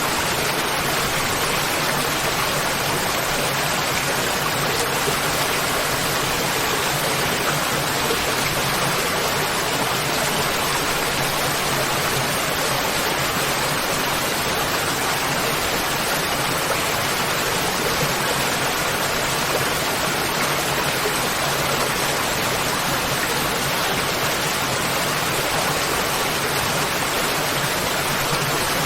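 Waterfall: water falling and rushing in a steady, even roar of noise with no breaks.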